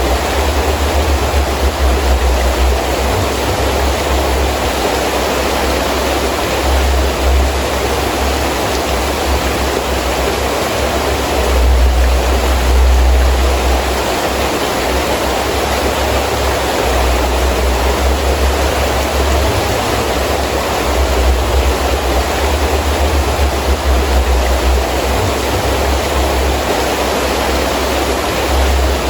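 Heavy rain falling steadily with gusting wind, a low rumble that comes and goes and swells briefly about twelve seconds in.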